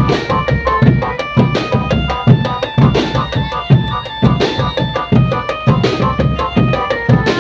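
Marching drum band playing: bass and snare drums beat a steady, driving rhythm while a pitched melody instrument plays a tune of short held notes above it.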